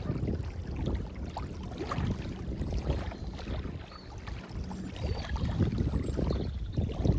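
Small waves lapping at a lake's edge, heard as an irregular low swashing mixed with wind rumble on the microphone. A few faint high chirps come through over the top.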